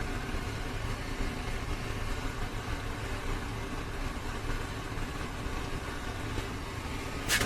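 Steady low mechanical hum, with a single sharp click near the end.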